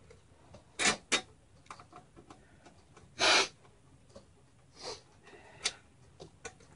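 Scattered clicks and knocks of hands and tools working on a mini-ITX computer case, with a short scraping noise about three seconds in.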